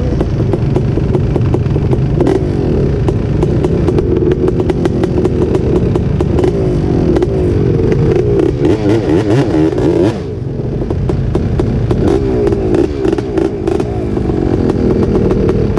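A big-bore Honda TRX250R two-stroke ATV and a Yamaha YZ450 dirt bike revving hard under acceleration on a drag run, their pitches rising and falling across each other. The sound drops briefly about ten seconds in, then builds again.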